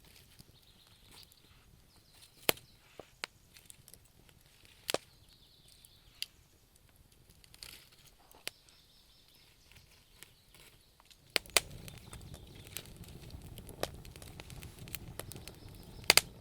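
Wood fire burning in a fireplace, crackling with scattered sharp pops; about two-thirds of the way through a low steady rumble of flames sets in and the pops come more often.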